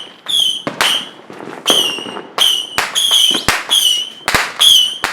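Consumer fireworks going off in a rapid, uneven string of sharp bangs and pops. Short high whistles sound between them, repeating about every half second.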